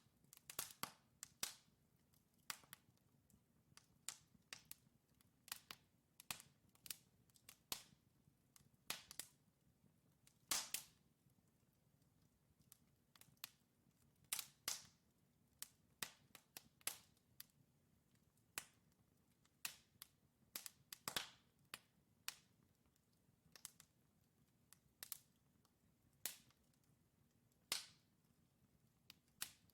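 Burning logs in a wood fire crackling and popping: sharp, irregular pops, several every second, some louder snaps among them, over a faint low hiss.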